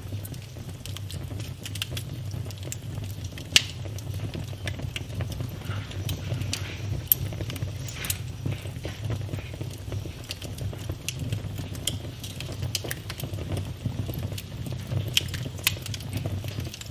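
Wood fire burning in a fireplace, crackling with irregular pops over a steady low rumble; the sharpest pops come about three and a half and seven seconds in.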